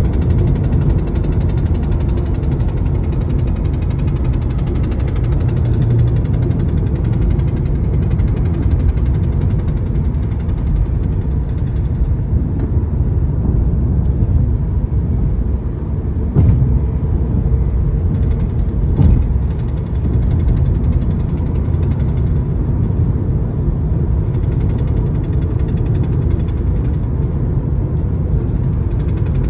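Rapid tapping from the dashboard of a 2012 Volkswagen Passat, heard inside the cabin at highway speed over steady road and engine noise. The tapping fades out for several seconds partway through, then comes back. Its cause is unknown to the owner.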